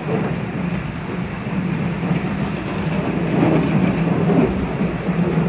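Postojna Cave tourist train running along its track, heard from an open carriage: a steady rumble with a constant low hum, getting a little louder past the middle.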